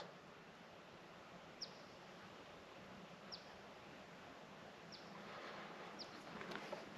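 Near silence: faint outdoor hush with a single bird's short high chirp repeated every second or two.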